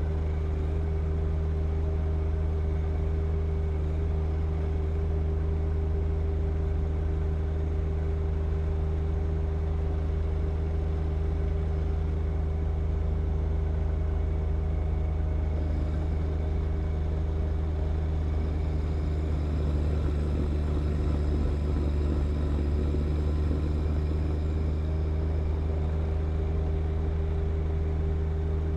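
John Deere 1025R compact tractor's three-cylinder diesel engine running steadily at working speed while driving a snow blower. A faint higher whine comes in for several seconds in the middle.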